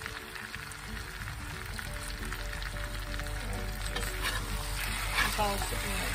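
Sliced potatoes sizzling in oil in a hot cast iron skillet. In the last couple of seconds a spatula scrapes against the pan and turns the slices, with a few short scraping strokes.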